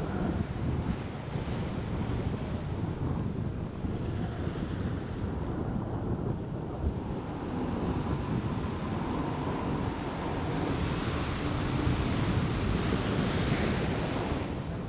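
Steady wind rumbling on the microphone over the wash of the sea, with a brighter hiss near the end.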